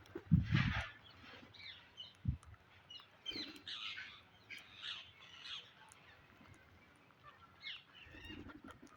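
Parrots squawking and chattering in short repeated calls, with a loud thump near the start and a lighter knock about two seconds in.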